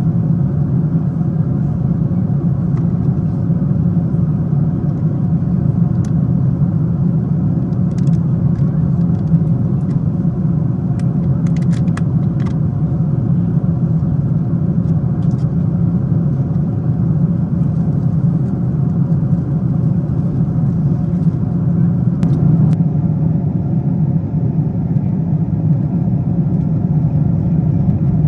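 Steady cabin drone of a Boeing 777-200ER in flight, engine and airflow noise heard from inside the economy cabin, with a slight change in its tone about three-quarters of the way through.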